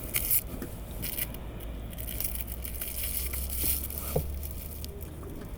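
Rustling, crinkling and scraping of things being moved about close to the phone's microphone inside the car, over a low steady hum.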